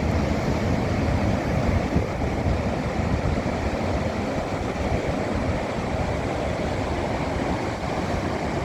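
Steady rushing of ocean surf below a cliff at high tide, mixed with wind buffeting the phone's microphone.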